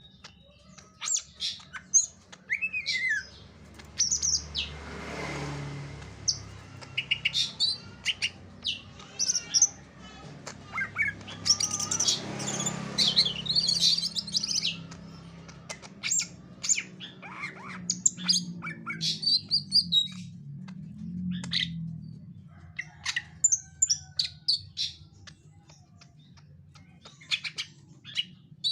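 Caged green leafbird (cucak ijo) calling in irregular bursts of rapid high chirps, short whistled notes and harsh squawks, over a low steady hum.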